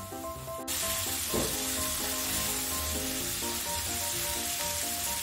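Frying sizzle as chopped tomatoes drop into hot oil in a pan of sautéed onions and spices: the sizzling jumps up suddenly about half a second in and then runs steadily while the pan is stirred with a spatula.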